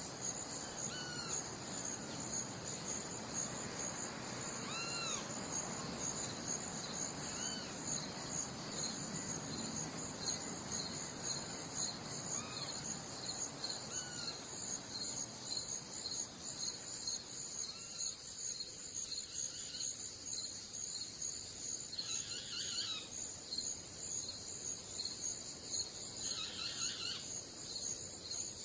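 Crickets chirping in a steady, pulsing high trill. Another animal gives short rising-and-falling calls every few seconds over it, and these come in quicker clusters near the end.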